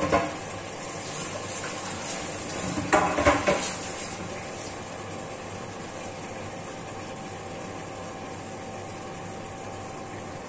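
Chicken frying in a pot with a steady sizzle, with a sharp metal clatter of a tray and utensils at the start and a second burst of clanking about three seconds in.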